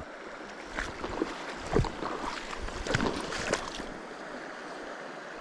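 Stream water running steadily, with a few short irregular splashes and knocks in the first few seconds.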